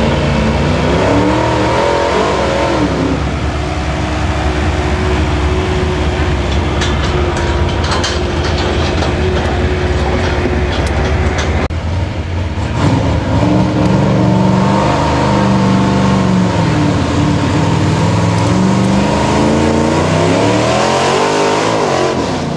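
Pulling truck's engine running hard at high revs under load, its pitch rising and falling repeatedly, with a brief break in the note about halfway through before it climbs again.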